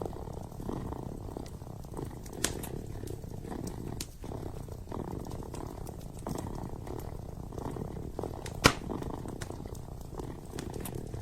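Kitten purring steadily in a low, pulsing rumble, with a few sharp crackles from a wood fire, the loudest a single pop about three-quarters of the way through.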